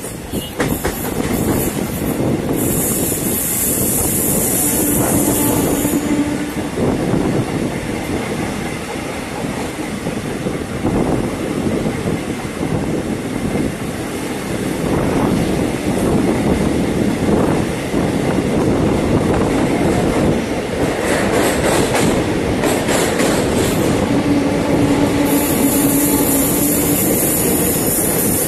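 Passenger train running at speed, heard from an open coach doorway: a loud, steady rumble of wheels on rails, with a high hiss about three seconds in and again near the end.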